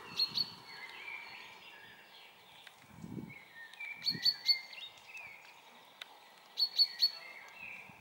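Songbirds singing, several warbling notes overlapping, with a bright high chirp repeated in quick runs of three a few times. A couple of low muffled thumps come about three and four seconds in.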